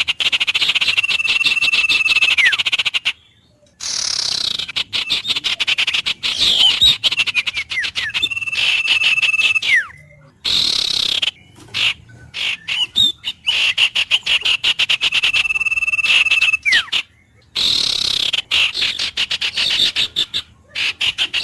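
Animal calls in a looped nature recording: a rapid pulsing trill followed by a held whistle that drops in pitch at the end. The pattern repeats about every seven seconds, broken by abrupt short silences.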